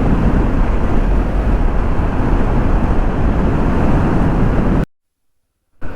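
Wind buffeting the microphone with road noise from a moving motorcycle, a steady rushing that cuts off abruptly to silence about five seconds in.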